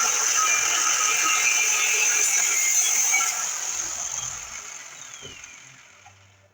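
Angle grinder running steadily at full speed with a high whine. About three seconds in it is switched off and its whine falls in pitch and fades away as the disc spins down.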